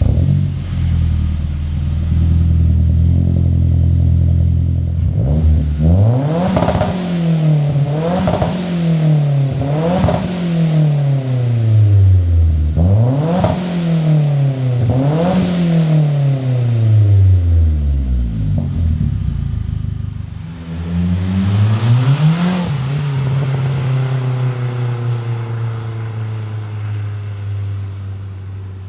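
Mazda 3 MPS turbocharged four-cylinder engine through a 3-inch Gravity Performance catback exhaust with the middle resonator box removed. It idles, is revved six times in quick blips that each rise and fall in pitch, then settles back to idle. The exhaust is loud.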